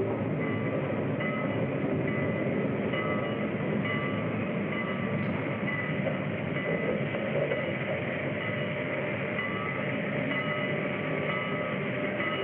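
A train running at speed: a steady rumble and rattle that does not let up, with faint repeating higher tones over it.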